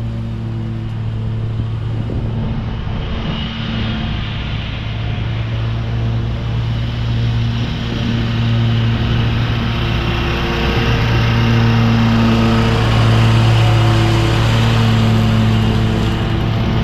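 Commercial lawn mower engine running steadily under load with blades mulching leaves, getting somewhat louder about two-thirds of the way through.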